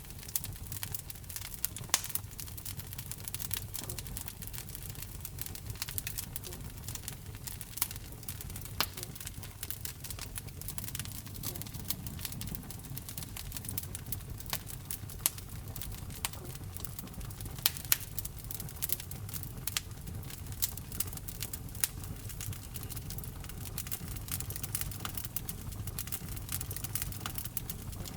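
Wood fire burning in a fireplace: a steady low rumble of flames with sharp, irregular crackles and pops, a few louder pops standing out, about 2 seconds in and again near 18 seconds.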